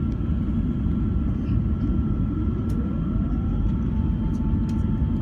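Airbus A380 cabin noise after takeoff: a steady deep rumble of engines and airflow with a thin steady whine over it. About halfway through a second whine rises in pitch and then holds steady.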